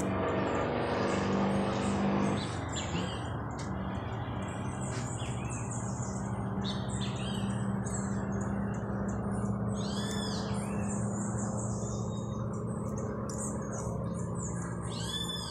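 Small birds chirping and twittering throughout, with a few clear rising-and-falling calls near the middle and again at the end, over a steady low hum.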